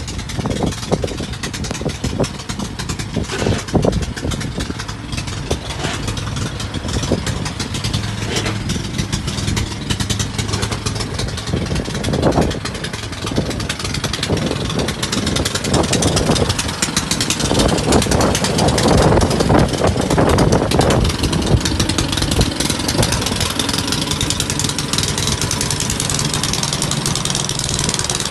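Snow blower engine running steadily, with a few louder, rougher surges of noise past the middle.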